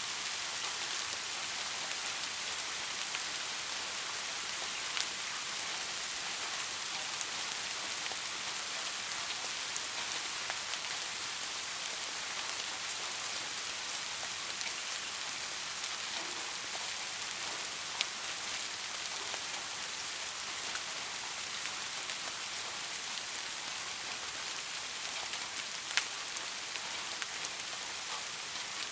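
Steady rain falling, an even hiss with occasional single drops striking close by as sharp ticks.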